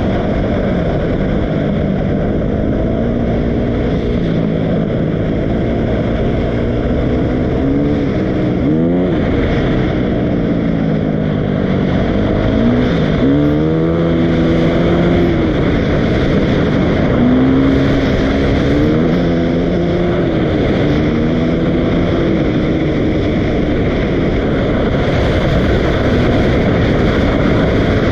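Dirt bike engine running, its pitch rising and falling several times as the throttle is opened and closed, over a steady rush of noise.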